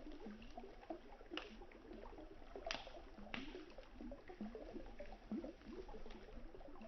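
Gurgling, lapping river water under a campfire that crackles, with three sharp pops of burning wood about a second and a half, two and a half and three and a half seconds in.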